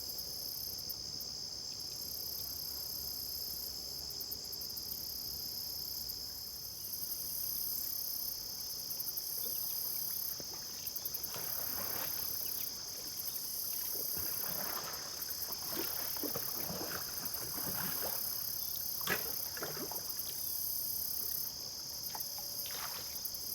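Insects chirring steadily in a high band, with a faster pulsing chirp above it. From about halfway through, a kayak paddle dips and splashes in the water with irregular strokes and drips.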